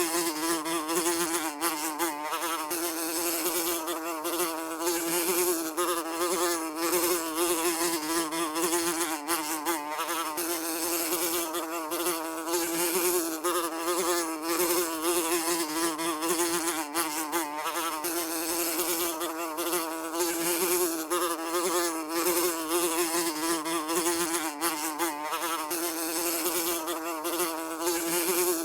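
A housefly buzzing continuously, its wingbeat hum holding a steady low pitch that wavers slightly as it flies.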